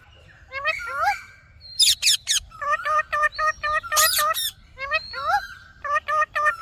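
Indian ringneck parrot calling: two loud, harsh shrieks about two and four seconds in, between runs of quick, evenly repeated chirps.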